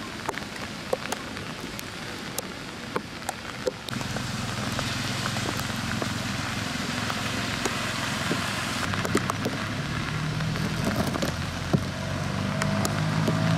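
Rain falling, with many sharp clicks of drops hitting a surface close by. About four seconds in the rain noise gets louder and a low steady hum joins it.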